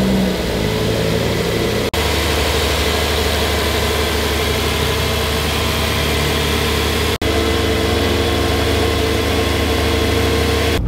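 A car engine running steadily at even revs, in three short clips cut together, with abrupt cuts about two seconds in and about seven seconds in.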